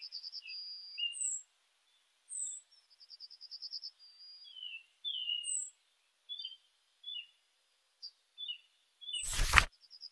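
Birdsong ambience: several birds chirping, with rapid high trills and short falling whistles coming every second or two. Near the end a short, loud burst of noise cuts across them.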